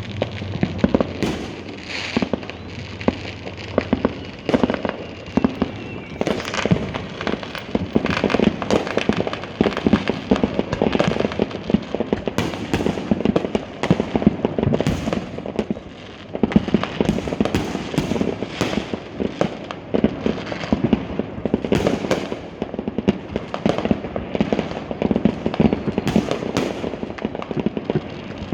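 Fireworks going off continuously: many overlapping pops, bangs and crackles in quick succession, with a brief lull about sixteen seconds in.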